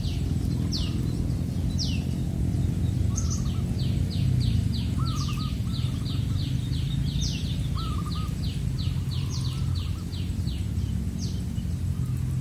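Wild birds calling: one bird gives a fast run of short, high, downward-sliding notes, about three a second, and another bird adds short, lower, warbled notes now and then. Under the birds is a steady low rumble of background noise, which is the loudest part.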